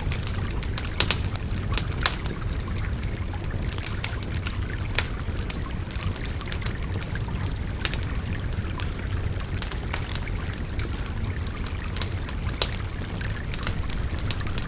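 Bonfire crackling with frequent sharp pops, layered over the steady rush of a babbling river.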